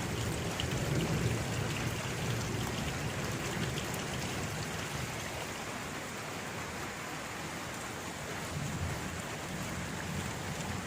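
Steady rain falling, a continuous hiss of drops with a low rumble that swells near the start and again near the end.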